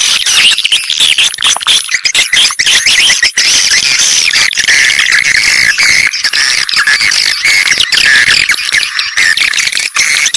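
Dense, continuous chorus of swiftlet chirps and twitters, many short calls overlapping. It is a swiftlet-luring sound track of the kind played to draw swiftlets into a nesting house.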